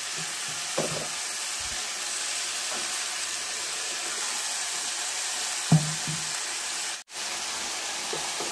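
Crab pieces, onion and tomato sizzling steadily in oil in a kadai, with a couple of soft knocks of a steel spoon against the pan as masala paste is added, one about a second in and one near six seconds. The sizzle briefly cuts out about seven seconds in.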